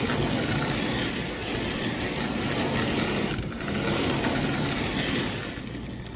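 Lionel 50 gang car running along toy train track: its small electric motor whirring under a steady rattling rumble of the wheels, with a brief break about three and a half seconds in. Its pickup roller is badly scored, which the owner expects to cause a lot of sparking.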